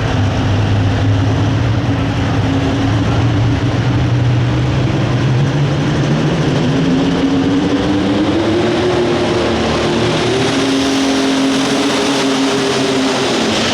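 Super stock pulling tractor's diesel engine running hard at full throttle during a pull, its pitch climbing from about halfway through and then holding high.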